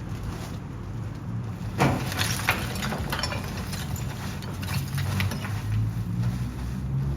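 Large truck engine running steadily, with a run of clattering knocks about two seconds in and a few more around five seconds.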